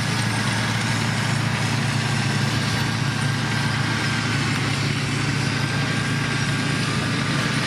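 Diesel engine of heavy construction machinery running steadily at a constant low speed, with a faint thin whine above it.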